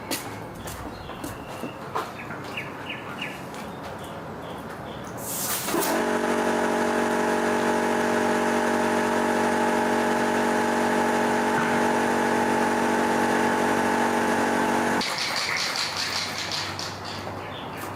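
Light clicks and taps of workshop handling, then a motor-driven machine starts about five seconds in, runs at a steady pitch for about nine seconds and stops suddenly.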